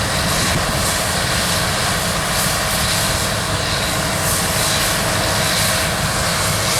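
New Holland TX64 combine harvester running steadily while harvesting wheat, a constant engine and threshing drone with a faint steady whine through it.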